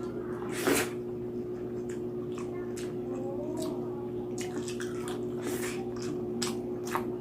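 Close-miked eating of lechon pig head: irregular wet chewing, smacking and mouth clicks, with one louder smack or crunch just under a second in, over a steady low hum.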